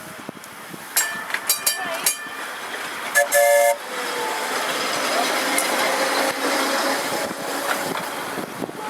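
Electric tram's bell rung several times, then a short horn toot, and the tram moving off, its running noise building with a faint rising whine.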